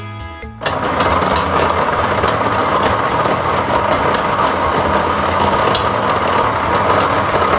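Electric food processor with a chopper bowl switching on about a second in and running steadily, mincing raw meat.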